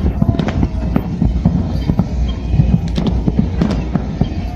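Fireworks going off in quick succession: a dense run of sharp bangs and cracks, several a second, over a continuous low rumble.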